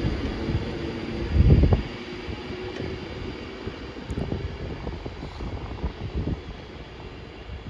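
A train's low rumble on the rails, with a heavy thud about one and a half seconds in, then quieter and uneven as it goes by.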